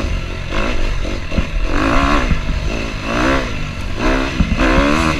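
KTM 250F dirt bike's four-stroke single-cylinder engine, blipped repeatedly so its pitch rises and falls in short surges several times, as the bike picks its way over rocks and a log.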